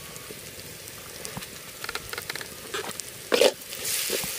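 Sliced onions sizzling in hot oil in a blackened wok, with a spatula scraping through them to stir in red chili powder. The scraping strokes start about two seconds in and get louder near the end.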